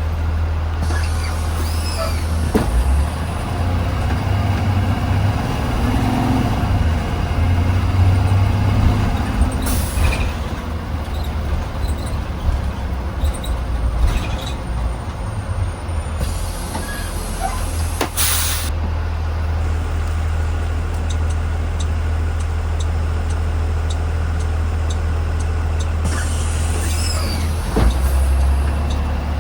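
2020 Blue Bird Vision school bus heard from inside the cabin: the engine runs with a steady low hum, and short air-brake hisses sound twice, about 10 and 18 seconds in.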